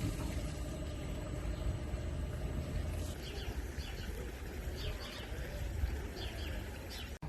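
Small birds chirping in short, repeated calls, starting about three seconds in, over a steady low rumble of outdoor background noise.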